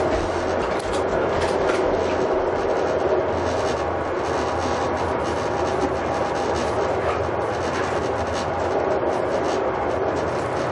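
Running noise of a passenger train heard from inside the carriage: a steady rumble and hiss of the wheels on the rails, with occasional light clicks.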